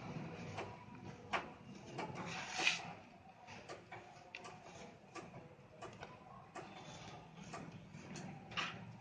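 Dried red sand shapes crumbling as they are crushed: irregular crisp crunches and crackles, with a bigger crunch about two and a half seconds in and another near the end.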